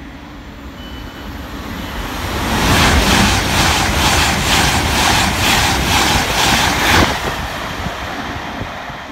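Express passenger train passing through a station at speed. A rushing roar of wheels on rails grows as it nears and then holds loud, with a steady clatter of about two beats a second as the wheels cross the rails. About seven seconds in, the loud rush gives way abruptly to a quieter rumble.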